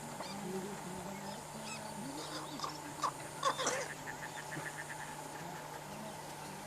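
Wild birds calling in a wetland: scattered short chirps and calls, with a quick run of evenly repeated notes about halfway through.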